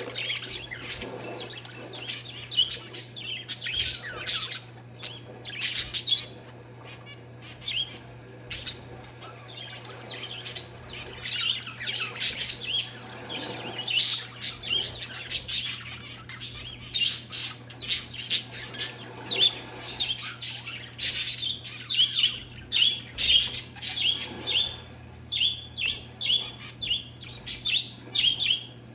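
Pet parakeets and zebra finches chirping and calling together in a steady stream of short, high chirps, with a quick run of repeated notes near the end.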